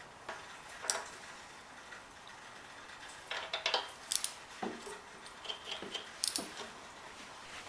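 Scattered light metallic clicks and clinks of small hand tools and parts being handled. A cluster of clinks comes about three and a half to four seconds in, and more follow past six seconds.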